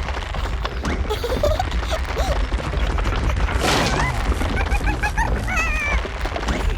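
Squeaky cartoon character vocalizations, yip- and whimper-like: a quick run of short rising squeaks, then a wavering high whine near the end, over busy cartoon sound effects and music.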